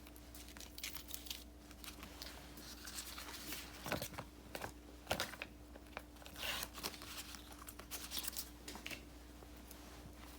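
Paper stickers and sticker sheets being handled: peeling, rustling and crinkling, with small scattered taps and clicks.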